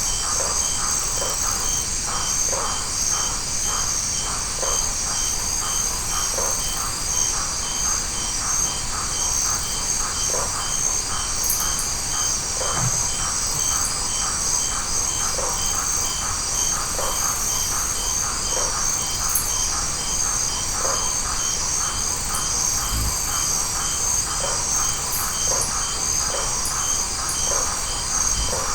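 Tropical night insect chorus of crickets and similar insects: a dense, steady high trill with a regular pulsing call about twice a second and many short repeated chirps beneath it.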